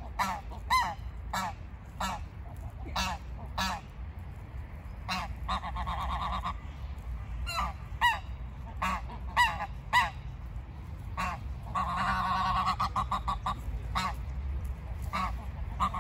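Geese honking: a run of short calls, one or two a second, with several birds calling over one another about three-quarters of the way through, over a low steady rumble.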